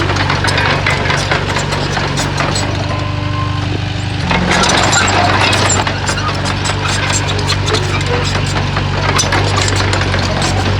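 Small Komatsu D20 crawler bulldozer's diesel engine running under load, with a steady clatter. The engine eases off briefly about three to four seconds in, then picks up louder again.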